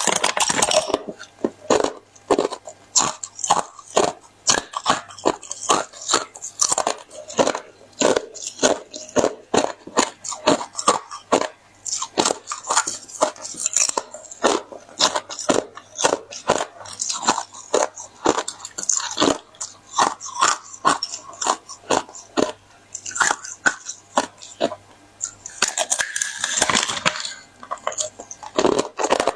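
Close-miked biting and chewing of hard, hollow ice: a fast run of sharp crunching cracks, several a second, with a louder, denser spell of crunching near the end.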